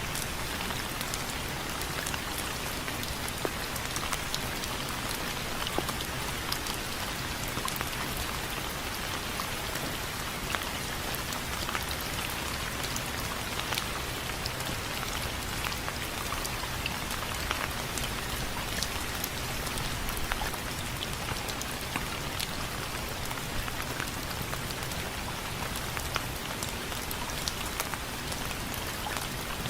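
Steady rain falling on window frames, with many small, sharp drop hits ticking through an even rushing hiss.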